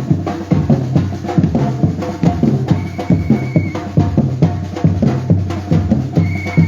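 Batucada drum group playing a fast, steady rhythm, with deep bass drums under dense repeated strokes. A whistle sounds a held note about three seconds in and again near the end.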